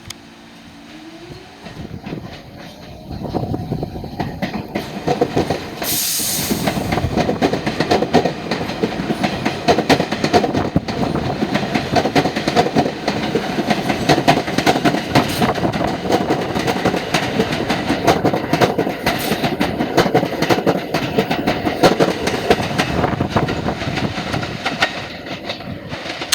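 New York City subway train passing, its wheels clattering over the rail joints. The clatter builds from about three seconds in and stays loud until near the end, with a brief high hiss about six seconds in.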